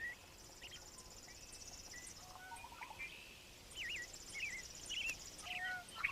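Outdoor summer ambience: an insect's high, pulsing trill runs in two stretches of about two seconds each, with short whistled bird calls and chirps scattered through it.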